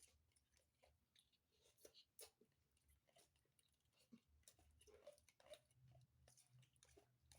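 Near silence: room tone with faint scattered small clicks and taps.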